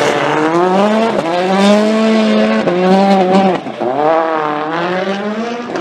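Rally car's turbocharged four-cylinder engine revving hard under acceleration, its pitch climbing. About two-thirds through the revs drop briefly, then climb again.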